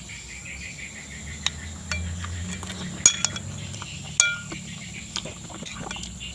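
Eating utensil clinking against a dish a few times, sharp ringing clinks with the loudest about three and four seconds in, over a steady high chirring of insects.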